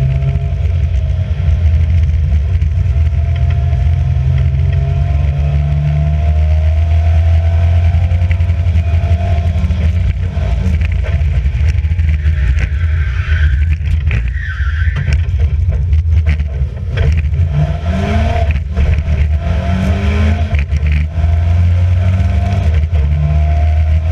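Alfa Romeo Giulia race car's engine running hard at speed, its revs rising and falling through gear changes and rising sharply a few times in the second half.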